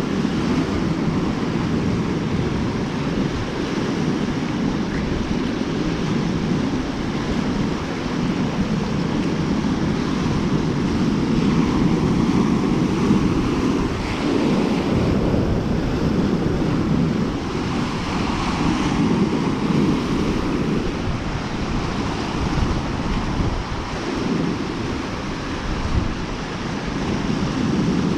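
Waves washing onto a lakeshore, the surf rising and falling every few seconds, with wind buffeting the microphone.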